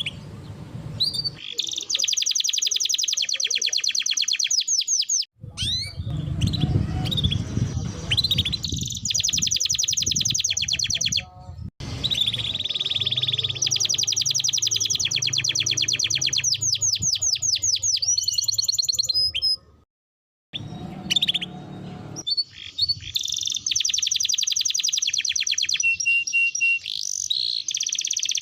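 Domestic canary singing long, fast rolling trills and chirped phrases in a high register. The song breaks off abruptly several times, with a brief silence about two-thirds of the way through.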